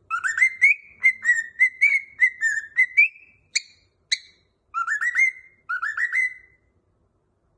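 Cockatiel whistling a tune: a quick run of short rising notes, two sharp chirps, then two fast trills of rising notes that stop about two-thirds of the way through.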